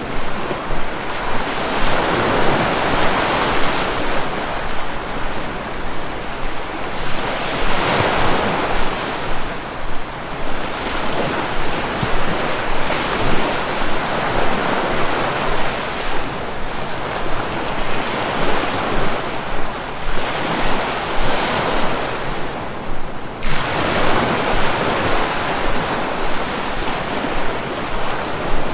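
Sea waves breaking and washing on the shore, the surf swelling and fading again every few seconds.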